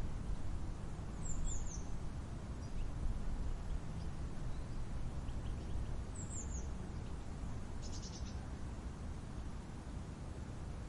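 Steady low wind rumble with small birds calling over it: a brief high falling chirp about a second in, another near six seconds, and a quick run of short high notes around eight seconds.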